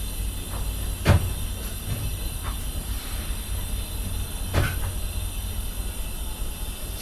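Train rolling past: a steady low rumble with sharp knocks, the two loudest about a second in and about four and a half seconds in.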